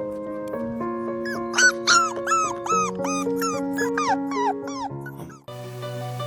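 Puppy whimpering in a quick run of short, high, falling cries, about four a second, over soft background music. About five seconds in, the cries stop and the music changes.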